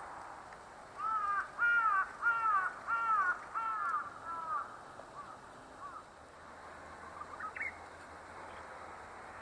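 A crow cawing about six times in a quick, even series, then two fainter caws. A short rising call comes near the end.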